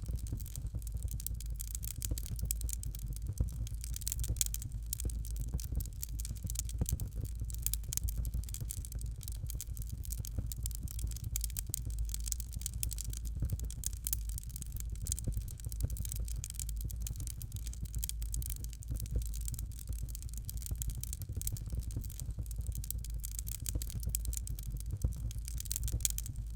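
Fireplace fire crackling: a dense, steady stream of small crackles and pops over a low, constant rumble.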